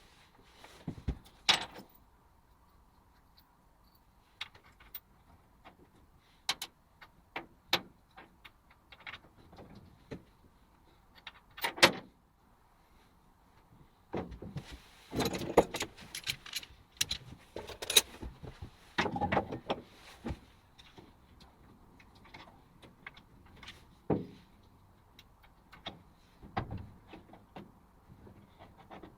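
Irregular metallic clinks and knocks of metal parts and tools being handled.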